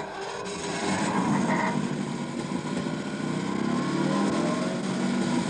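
Prototype Triumph Stag 2.5-litre V8 engine running on a test bed, its pitch wavering slightly.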